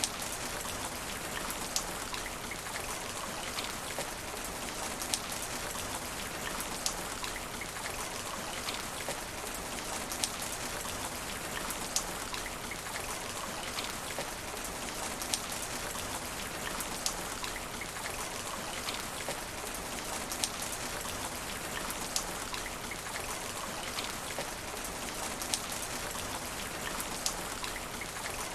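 Steady rain falling on asphalt, an even hiss with frequent sharp ticks of single drops hitting close by.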